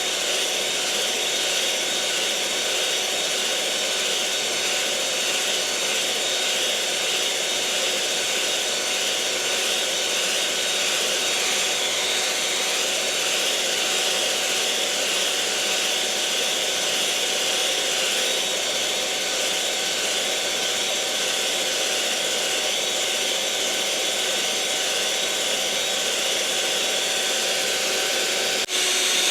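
Electric mixer motor running steadily: an even whirring hum with a faint constant whine in it. There is a slight click and change in tone near the end.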